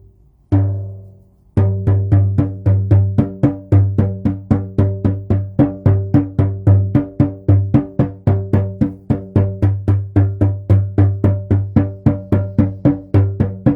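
A drum struck twice, then beaten in a steady, even rhythm from about one and a half seconds in, roughly three to four beats a second, each beat a low boom with a short ring.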